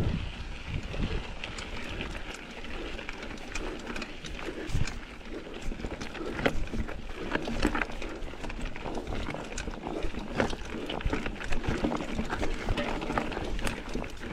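Mountain bike going over rough, rocky ground: tyres crunching and the frame and chain rattling, with a low rumble and many irregular knocks and clicks.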